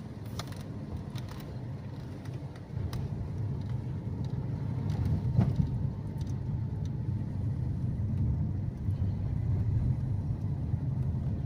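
Car driving: a steady low engine and road rumble that grows a little louder about three seconds in, with a few faint sharp clicks.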